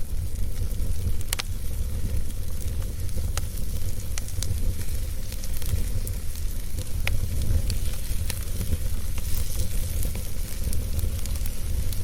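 Wood fire in a fireplace crackling, with scattered sharp pops over a steady low rumble and hiss.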